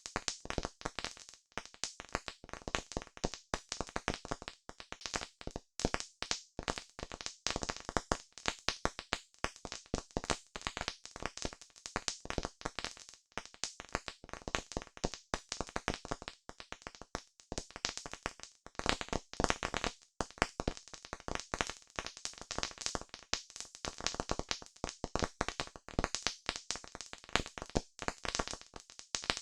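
Campfire crackling: a dense, irregular run of sharp pops and snaps from burning wood.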